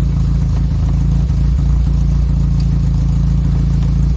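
Nissan A14 four-cylinder engine idling steadily, running on a newly fitted electronic distributor while its ignition timing is being set.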